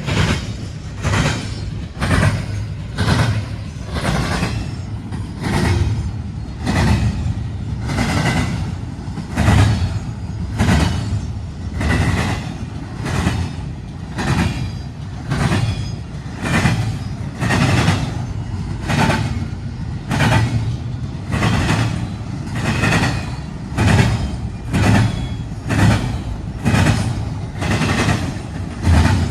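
Railroad cars rolling past, their wheels clacking over rail joints in a steady rhythm of a little more than one clack a second, over a continuous rumble.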